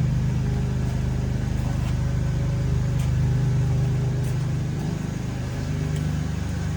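2000 Toyota Tacoma pickup's engine idling steadily, with a slight change in its note near the end.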